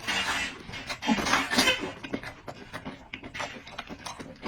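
Close-up mouth sounds of a person eating: two loud slurps in the first two seconds, then softer wet chewing and smacking clicks.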